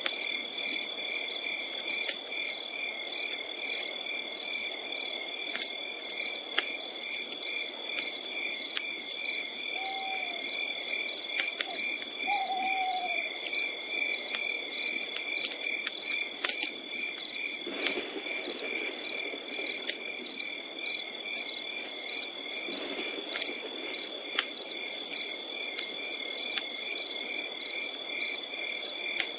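Forest night ambience: crickets chirping about twice a second over a steady high insect drone, with scattered sharp crackles and pops from a campfire. Two short low hoots come about ten and twelve seconds in.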